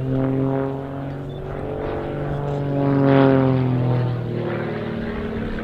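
Grob 115E Tutor's 180 horsepower Lycoming piston engine and propeller passing overhead, loudest about three seconds in, then dropping in pitch and fading as the aircraft draws away.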